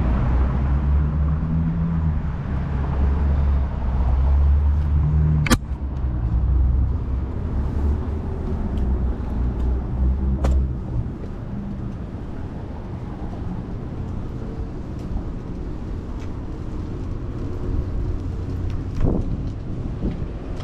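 City street traffic: a motor vehicle's engine running close by with a low, steady hum for about the first ten seconds, then fading to a quieter traffic background. Two sharp clicks stand out, about five seconds in and about ten seconds in.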